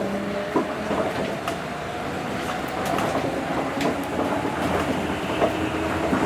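Tokyo Monorail train running along its beam, heard from inside the car. A motor whine shifts slowly in pitch over steady rolling noise, with scattered sharp clicks.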